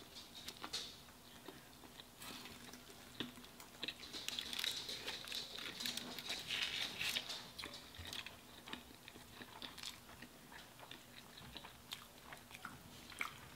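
Faint chewing and biting of cheeseburgers and fries: soft wet clicks and crackles of food in the mouth, busiest from about four to eight seconds in.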